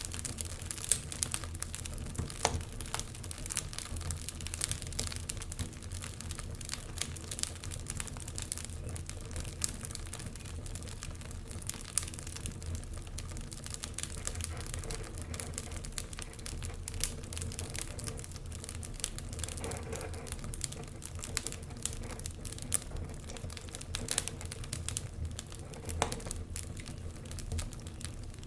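Fire in a fireplace crackling, with irregular sharp pops and snaps over a steady low rumble of the flames. A few louder pops stand out.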